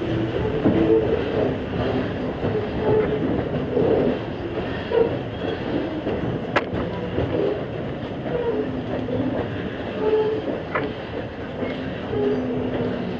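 Riding noise inside a steam-hauled passenger train on the move: a steady rumble of wheels on the rails and the coach rattling and creaking, with short squeaks throughout. One sharp click comes about halfway through.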